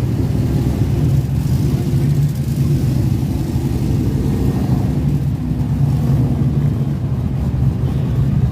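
Truck engine running at a steady idle, a low, even rumble that holds one pitch.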